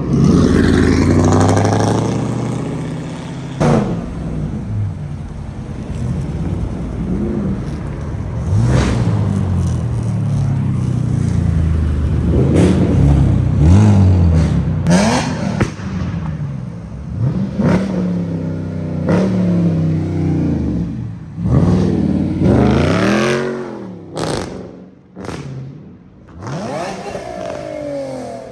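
Car engines revving, their pitch climbing and dropping again and again, with several revs in a row.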